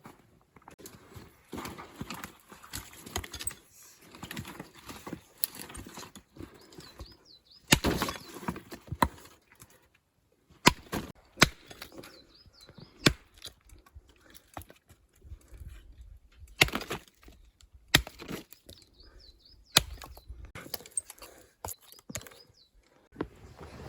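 A string of sharp, irregularly spaced knocks and snaps, about a dozen through the middle and later part, with shuffling and crunching between them.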